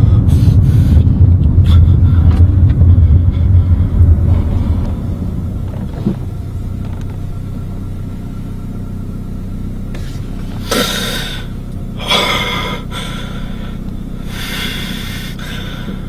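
A low engine rumble that fades after about four seconds to a steady low hum, then three short, loud breaths or gasps spaced a second or two apart near the end.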